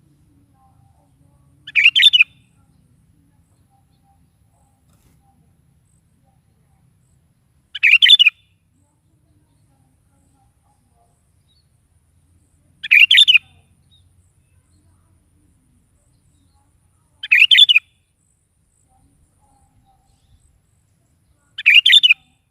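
Sooty-headed bulbul (kutilang) singing five short song phrases of about half a second each, spaced four to six seconds apart.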